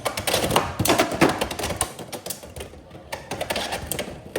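Two Beyblade X spinning tops, Silver Wolf 1-60 Rush and Hover Wyvern 9-60 Kick, clashing in the plastic stadium: rapid, irregular clacking and knocking of hard plastic and metal as they hit each other over and over, the densest hits in the first second and a half and again near the end.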